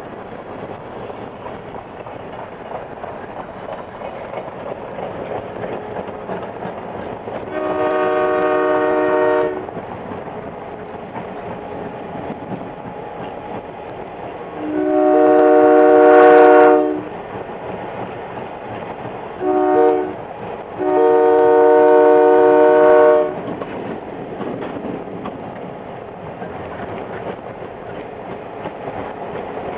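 Canadian National freight locomotive's air horn sounding the grade-crossing signal: two long blasts, a short one, and a final long blast, the second long blast the loudest. Under it runs the steady clatter of the moving freight train.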